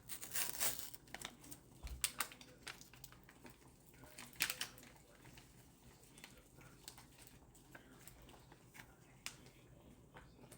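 Scattered light clicks and taps from handling cooking things, busiest in the first half and then sparse.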